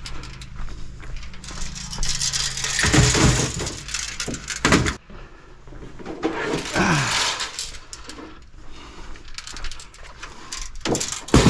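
Scrap computer tower cases being shifted and set down, with sheet metal scraping and sliding in long stretches and a short falling squeal partway through. Two sharp knocks come near the end.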